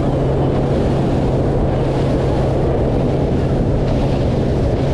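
Wind buffeting the microphone over the steady low drone of a boat motor running.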